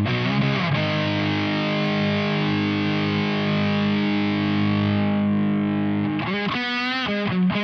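Electric guitar played through an Ibanez Metal Charger distortion pedal: a distorted chord rings out and sustains for about six seconds. Then a single lead note is shaken with wide vibrato.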